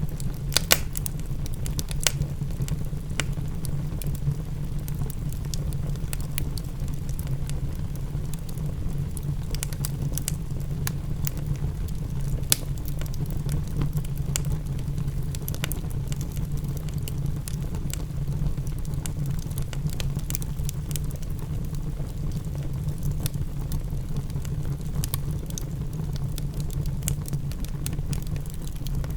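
Wood fire crackling in a fireplace: irregular sharp pops scattered over a steady low rumble.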